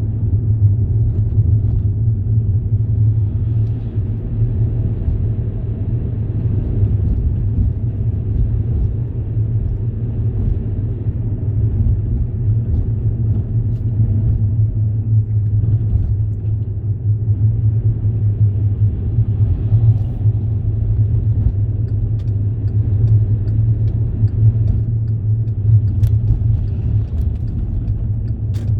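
Steady low rumble of a moving vehicle's engine and running gear, unbroken throughout, with a few faint clicks near the end.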